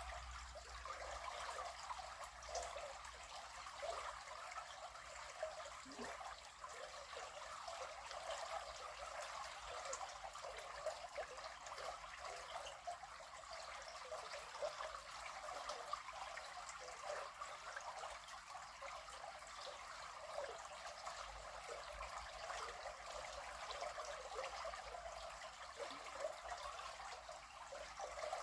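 River water flowing with a steady trickling babble.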